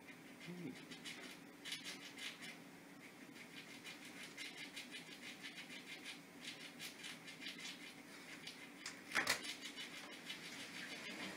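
Squirrel gnawing and chewing a cracked hazelnut: a fast run of small dry clicks and scrapes, with one louder crack about nine seconds in, over a steady low hum.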